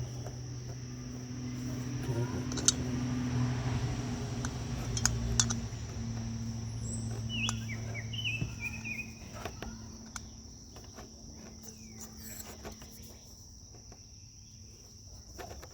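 Crickets chirring in a steady high-pitched drone, with scattered clicks and knocks, a low hum that fades out about nine seconds in, and a few short chirps about halfway.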